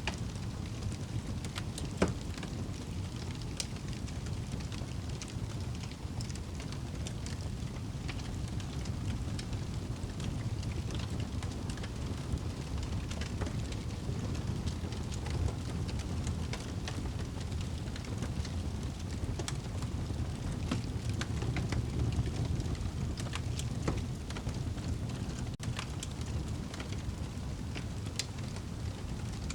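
Wood fire burning in a fireplace: a steady low rumble of flames with scattered crackles and pops, one sharper pop about two seconds in.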